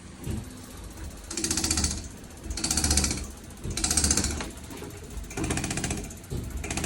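Common-rail diesel injector being fired on a test bench: five short bursts of rapid buzzing clicks, roughly one burst every second or so.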